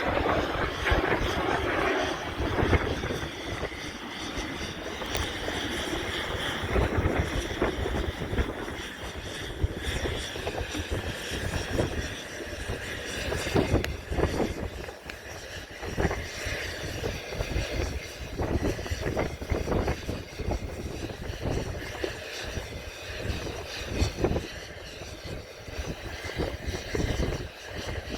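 Propeller airplane's engine running, louder in the first several seconds and weaker after that, as from a plane passing or moving away.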